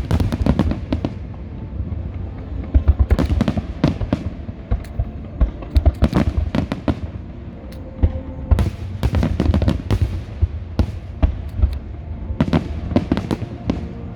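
Fireworks display: aerial shells bursting in a run of sharp bangs over a low rumble, some in quick crackling volleys, with dense clusters about three, six, nine and thirteen seconds in.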